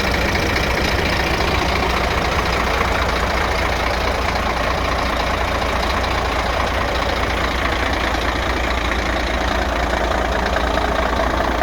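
Scania P380 dump truck's diesel engine running steadily at an even speed.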